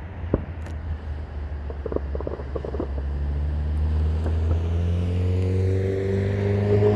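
Distant fireworks popping and crackling over a steady traffic rumble, then a road vehicle's engine grows louder from about three seconds in, its pitch rising as it accelerates.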